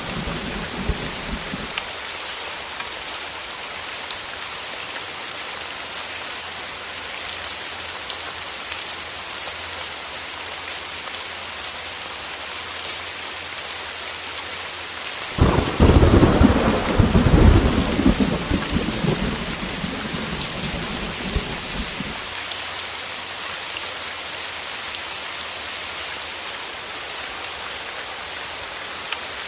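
Heavy rain falling steadily, with a thunderclap about halfway through that breaks in suddenly and rumbles for several seconds before fading. This is the loudest sound. A rumble of earlier thunder dies away at the start.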